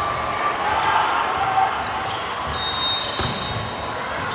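Volleyball being played in a gym: ball hits and thuds over a steady background of voices, with a brief high-pitched tone about two and a half seconds in.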